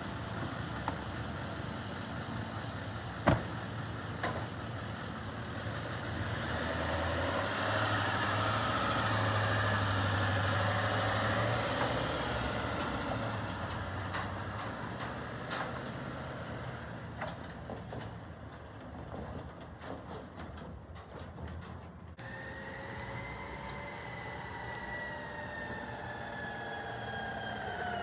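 Garbage truck engine running, with a sharp bang about three seconds in and the engine building up louder for several seconds in the middle. Near the end the sound changes abruptly to a slowly falling multi-tone whine, like a siren winding down.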